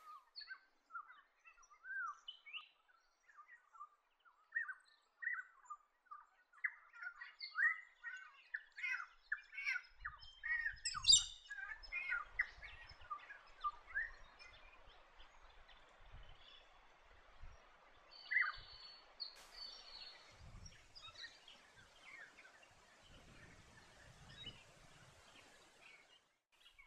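Turquoise parrots calling: many short, high chirps in quick succession, with a faint hiss of background noise setting in about halfway through.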